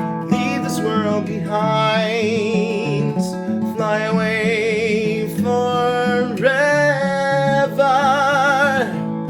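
Acoustic guitar music with a melody of long, held notes with vibrato over the chords, in a wordless passage of the song.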